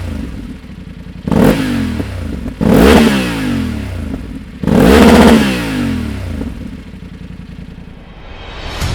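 2024 BMW F800GS parallel-twin engine being revved through its exhaust while standing: three sharp throttle blips, the third held longest, each dropping back to a steady idle.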